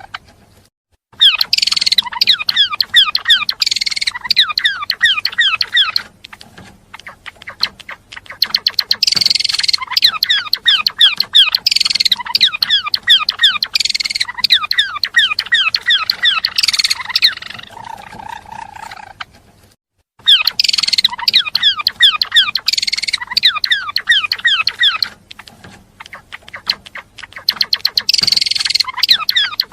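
Gelatik belong songbird singing in long phrases of rapid, high chirps and trills, broken by short pauses about a second in and again about two-thirds of the way through.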